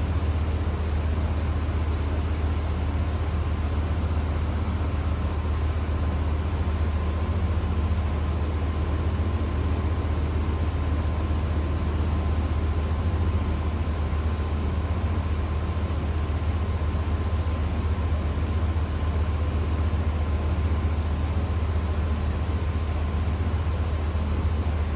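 Fanco Windward 452LA hugger ceiling fan running steadily: a strong low motor hum under an even rush of moving air.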